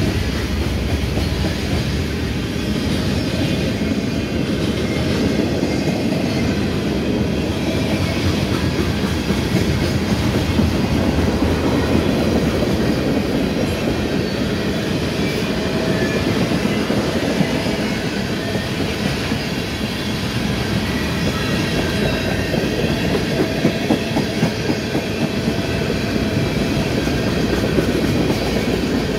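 Freight train's boxcars and tank cars rolling slowly past, steel wheels rumbling and clicking steadily over the rails.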